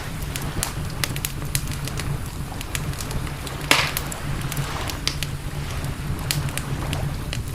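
Wood campfire crackling, with frequent small pops and one louder crack followed by a short hiss about four seconds in, over a steady low rumble.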